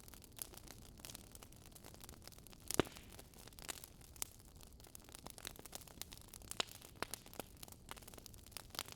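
Wood fire crackling: irregular small snaps and pops over a soft hiss, with one louder pop about three seconds in.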